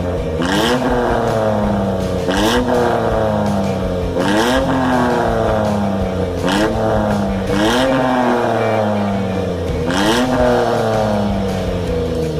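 Engine revved through an aftermarket exhaust muffler in about six throttle blips, each rising quickly in pitch and falling slowly back to idle.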